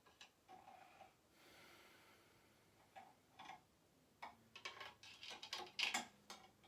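Faint scattered clicks and taps of statue parts being handled and fitted together: a couple around three seconds in, then a quicker run of them in the second half.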